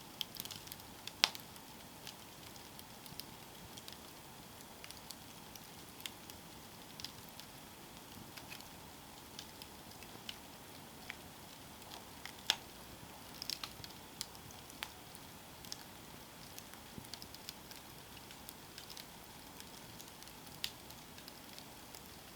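Campfire burning with a soft steady hiss and scattered sharp crackles and pops of burning wood, the loudest snaps about a second in and about halfway through.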